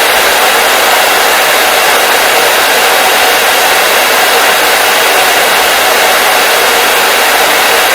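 Hair dryer blowing steadily, a loud even rushing noise with a constant pitch and no changes.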